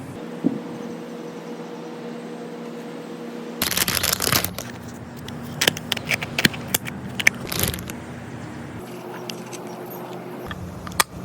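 Crunching, scraping and crackling of material being handled close up, coming in a cluster of sharp clicks and scrapes after a few seconds, over a steady low hum.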